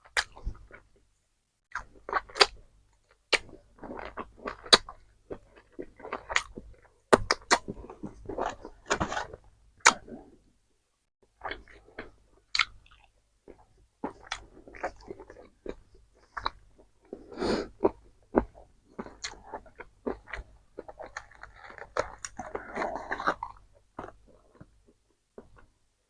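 Close-miked eating of crunchy KFC fried food: irregular crisp crunching bites and chewing, with a couple of brief pauses.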